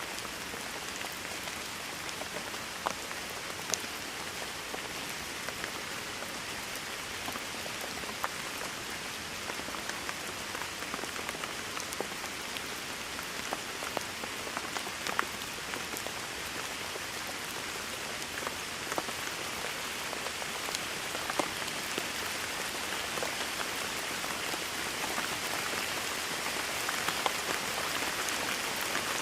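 Steady rain: an even hiss with scattered sharp drop ticks, growing a little louder near the end.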